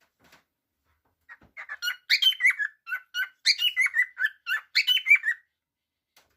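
Cockatiel chirping and warbling: a quick run of short, pitch-bending whistled notes lasting about four seconds.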